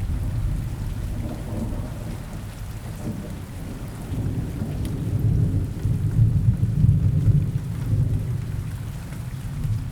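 Steady rain falling in a forest, under a low rolling rumble of distant thunder that swells about five seconds in and fades again near the end.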